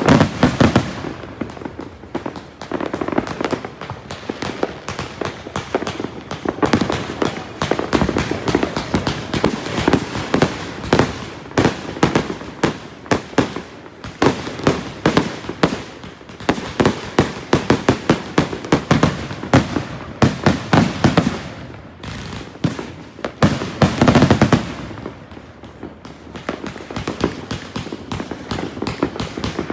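200-shot consumer fireworks cake firing a rapid, unbroken barrage of shots and crackling bursts, several per second, with heavier clusters of loud bangs several times along the way.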